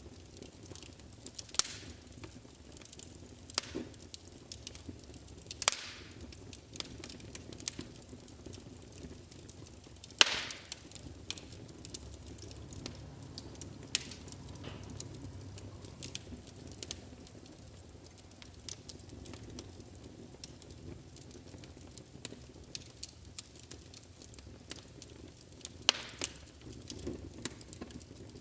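Wood fire burning in a fireplace, with irregular crackles and sharp pops over a low steady rumble. The loudest pop comes about ten seconds in.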